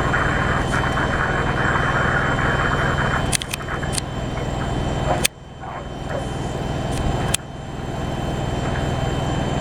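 Rocket launch rumble from the engines after liftoff, a steady loud roar. Sharp clicks come at about 3.5, 5 and 7.5 seconds, each followed by a sudden dip in loudness that builds back.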